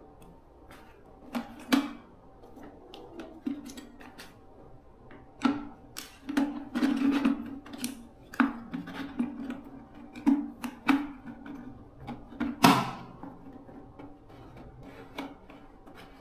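Irregular knocks and clicks of hard parts being handled and fitted by hand, each with a short hollow ring; one knock about three-quarters through is the loudest.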